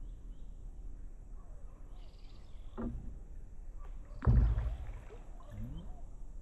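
Steady low outdoor rumble with faint bird chirps, and one loud low thump about four seconds in.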